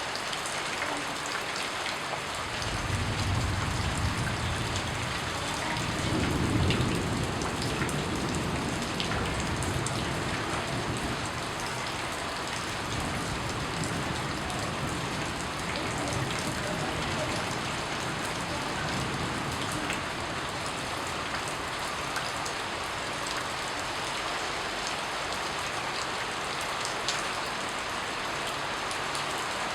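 Steady rain falling and pattering on a surface. A low rumble swells in about two seconds in and fades out over the next ten seconds.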